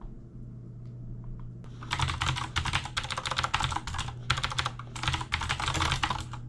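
A rapid patter of small clicks that starts about two seconds in and comes in bursts with short pauses, over a low steady hum.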